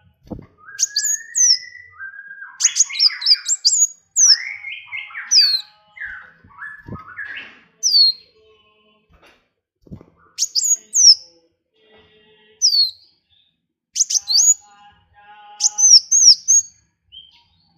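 Small songbirds singing: clusters of sharp, high, down-slurred whistled notes repeated every second or so, mixed in the first half with a lower, rambling warbled chatter. A few faint low knocks fall in between.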